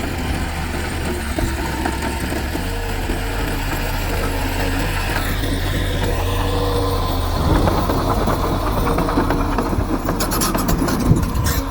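Diesel engines of heavy earthmoving machinery running steadily, with a rapid run of clanks near the end.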